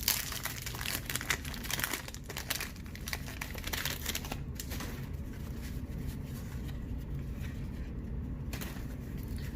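A 1991 Topps baseball card wax pack being handled and torn open, the paper wrapper crinkling and tearing in a quick run of crackles for about the first four seconds. After that it settles to a low steady hum.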